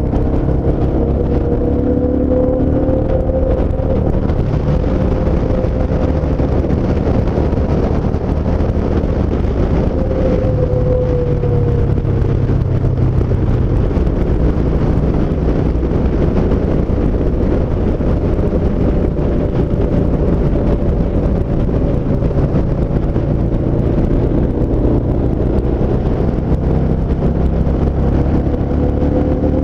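Yamaha SCR950's air-cooled V-twin engine running at cruising speed under a steady rush of wind and road noise, its pitch rising near the end as the bike accelerates.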